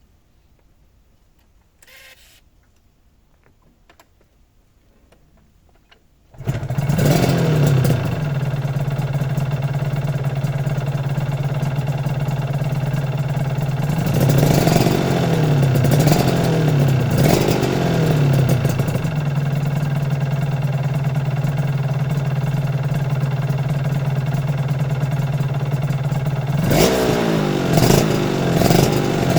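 Suzuki RGV250Γ two-stroke V-twin motorcycle engine starting up abruptly after about six quiet seconds, then idling steadily. The throttle is blipped in a few quick revs around the middle and again near the end.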